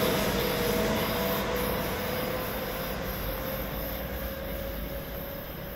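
Passenger train hauled by a red ÖBB electric locomotive running away along the track, its rumble fading steadily, with a steady whine.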